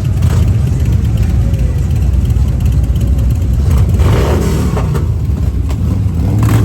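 Motorcycle engines rumbling steadily, with one engine note rising and falling about four seconds in and again near the end.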